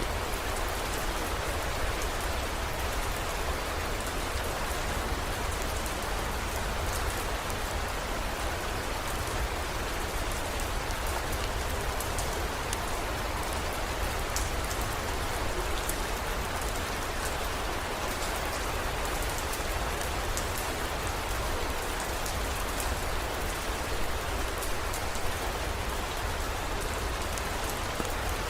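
Steady heavy rain, with many small drop ticks and a low rumble underneath.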